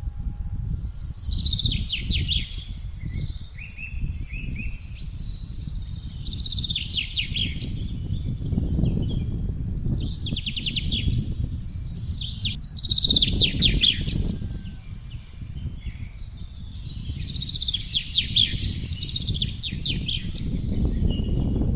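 Songbirds singing short phrases of rapid, trilled notes every few seconds over wind blowing in gusts, a low rumble that rises and falls.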